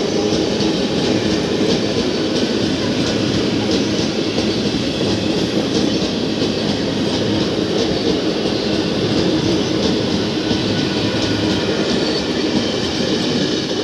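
Passenger train passing at speed, its wheels clicking rapidly and steadily over the rail joints, with a steady tone running underneath.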